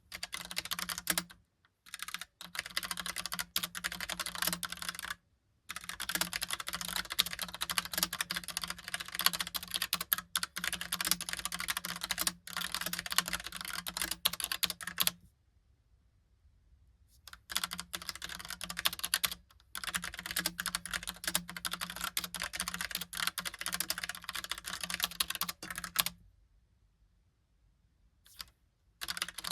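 Logitech POP Keys typewriter-style mechanical keyboard being typed on in fast runs of clicky keystrokes, broken by several short pauses of a second or two.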